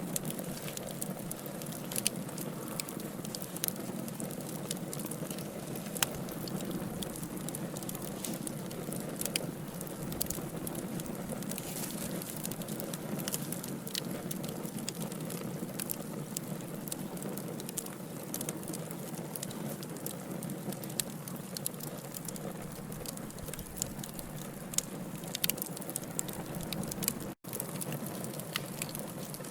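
Wood fire of burning logs crackling, with irregular sharp pops over a steady hiss. The sound drops out to silence for a split second near the end.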